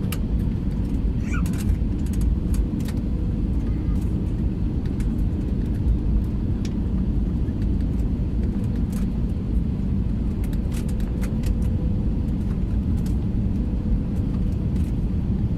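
Airliner cabin noise: a steady low rumble with a faint steady hum and scattered light clicks.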